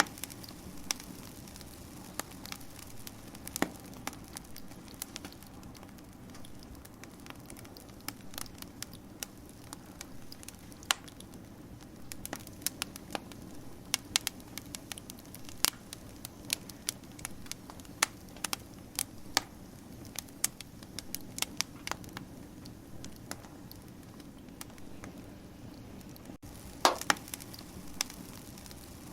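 Wood fire crackling: a low steady hiss with irregular sharp pops and snaps, and a brief flurry of louder pops near the end.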